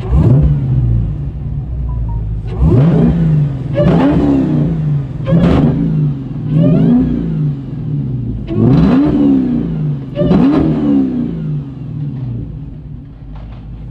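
Car engine revved hard about seven times, each rev climbing and falling back, a second or two apart. It settles back to a steady idle near the end.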